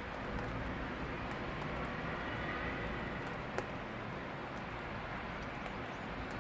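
Steady rain falling on a street, an even hiss, with scattered faint ticks and one sharper click a little past halfway.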